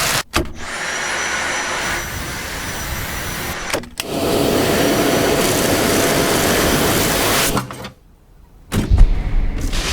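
Dyson V7 cordless vacuum running: a steady rushing hiss with a thin high whine. It stops briefly twice, then cuts out near the end, followed by a couple of loud knocks.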